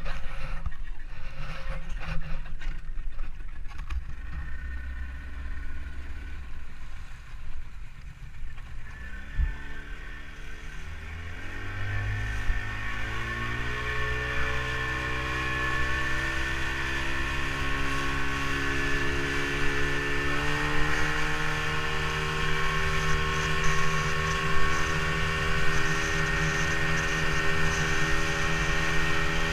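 Motorboat engine starting low and picking up speed about ten seconds in, its pitch rising in steps, then running steadily at speed.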